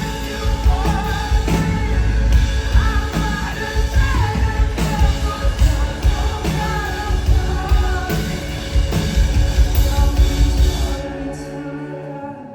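Live band playing a song with a sung lead vocal over steady drums and bass. About eleven seconds in, the drums and bass drop away, leaving a soft held chord.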